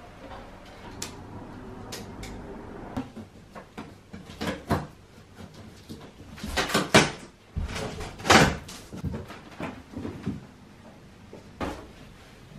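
A series of irregular knocks, bumps and clatters from things being handled and set down, the two loudest about seven and eight and a half seconds in.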